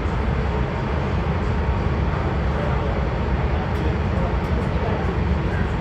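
Metro D Line subway train running, a steady low rumble heard from inside the car.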